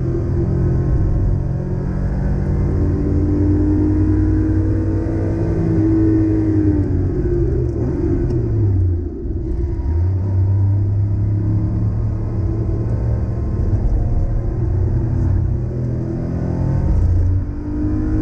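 An '87 Porsche 911 Carrera 3.2's air-cooled flat-six heard from inside the cabin while lapping a race track. The engine note falls as the car brakes for a slow hairpin, with a short break about halfway through that fits a downshift. It then holds steady through the corner and rises again under hard acceleration, with a brief dip near the end that fits an upshift.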